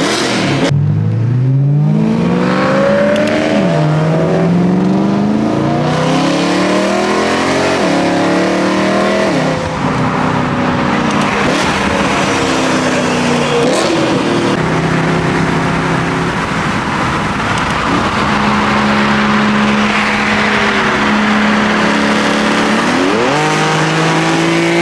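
Performance car engine revving hard as it accelerates through the gears, its pitch climbing and then dropping back at each upshift, several times over. It holds a steady pitch for a few seconds, then climbs again near the end.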